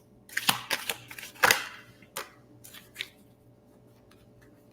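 Tarot cards being handled on a table: a quick run of sharp flicks and taps over the first three seconds, then quiet.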